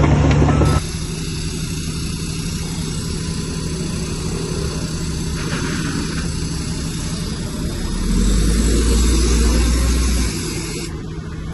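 Diesel engine of a Shantui bulldozer running steadily. Its sound changes abruptly less than a second in, and a deeper, louder rumble rises from about eight seconds in and drops off about two seconds later.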